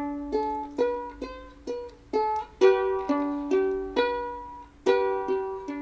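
Background music: a plucked string instrument playing a tune of single notes, about two a second, each ringing out and fading.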